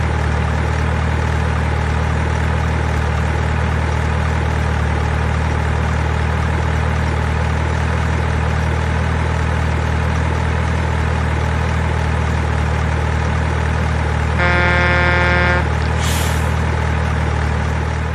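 Steady, unchanging diesel truck engine sound, as played by a toy mining truck's sound effect, with one horn blast of about a second near the end followed by a short hiss.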